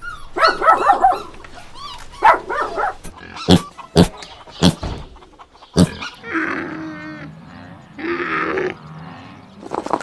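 An animal calling: several short whines with bending pitch, then four sharp clicks or knocks, then two longer rough, buzzy calls.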